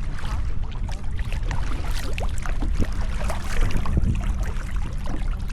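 Water splashing and dripping around a sit-on-top kayak as it is paddled, many small irregular splashes over a steady low rumble.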